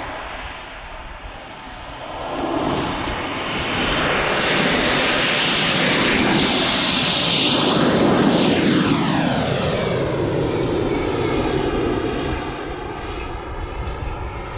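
Radio-controlled model jet flying past. Its engine sound swells over the first few seconds, peaks with a high whine midway, then falls in pitch and fades as it goes by.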